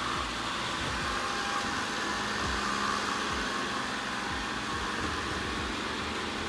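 Ecovacs Deebot N79W robot vacuum running, a steady whirr of its suction fan and brushes.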